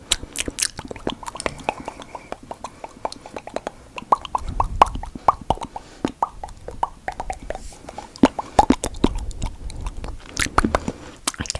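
Wet tongue flicking and clicking close to an ASMR microphone: a rapid irregular run of sharp, pitched mouth clicks, several a second.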